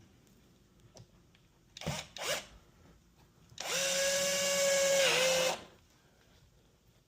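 A power drill runs for about two seconds at a steady whine, its pitch dipping briefly near the end. It is preceded by two short noises about two seconds in.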